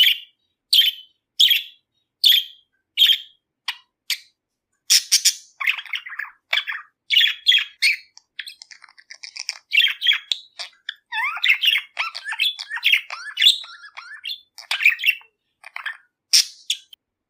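Budgerigar calling: first a string of sharp, evenly spaced chirps, about one every 0.7 seconds, then from about five seconds in a quicker, busier run of warbling chirps and chatter.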